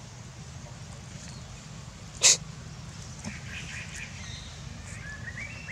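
Monkeys: one short, loud hissing burst like a sneeze or snort about two seconds in, then faint high squeaks and a short rising call near the end.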